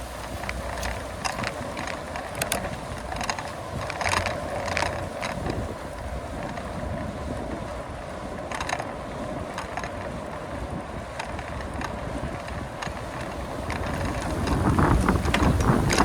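Bicycle in motion: irregular clicks and rattles from the bike's chain and frame over a steady road noise. Wind noise on the microphone grows louder near the end.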